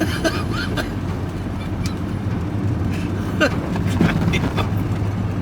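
Vehicle engine running steadily with road noise, heard from inside the cab while driving.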